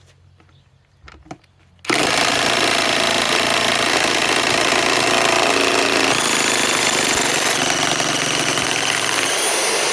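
DeWalt DCF961 high-torque impact wrench hammering without a break for about eight seconds as it backs out a large lag screw, starting about two seconds in after a few faint clicks and stopping right at the end.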